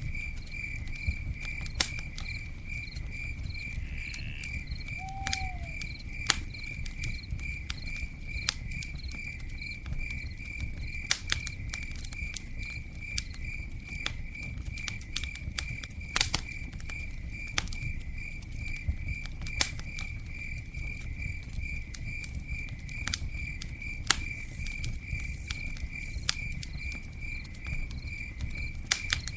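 Campfire burning, with frequent sharp crackles and pops over a low steady rumble. A cricket chirps throughout in a fast, even pulsing trill.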